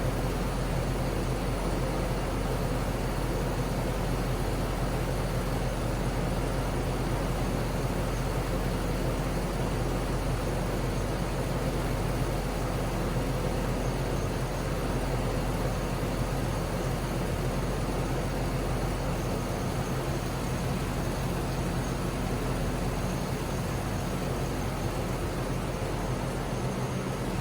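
2004 GMC Yukon Denali's 6.0-litre V8 engine running steadily, holding an even speed without revving.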